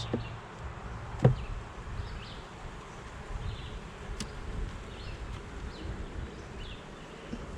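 Honeybees buzzing around an opened hive, a steady low hum, with a single sharp knock about a second in.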